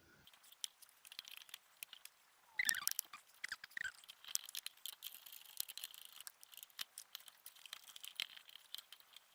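Faint, scattered clicks and taps of a small plastic appliance being handled, with a louder cluster of clicks and a few brief squeaky chirps about three seconds in.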